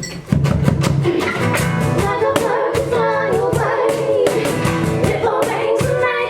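Live band performing an original song: a woman singing held, gliding notes over a steady drum beat and guitar.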